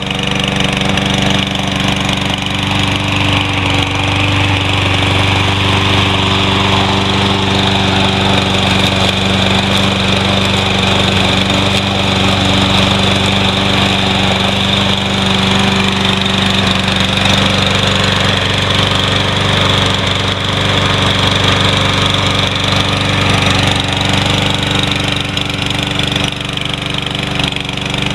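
Briggs & Stratton 550EX single-cylinder engine on a Troy-Bilt TB110 walk-behind lawn mower running at a steady speed.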